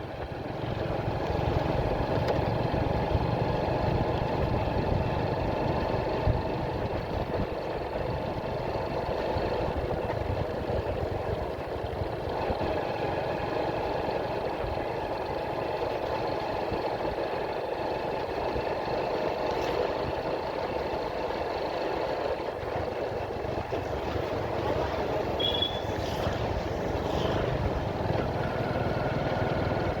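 Motorcycle riding along at a steady pace, its engine running evenly under wind and road noise, with a short high tone about 25 seconds in.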